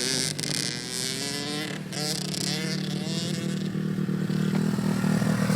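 Pit bike engine running, its pitch rising and falling at first, then a steady engine note that gets louder towards the end.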